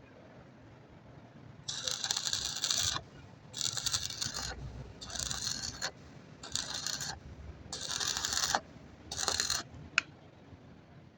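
Six scraping strokes on metal, each about a second long with short pauses between them, then a single sharp click.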